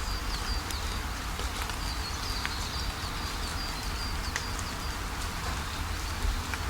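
Steady rainfall with scattered sharp drips, under a bird calling a long run of short high chirps, several a second. A steady low rumble sits beneath it all.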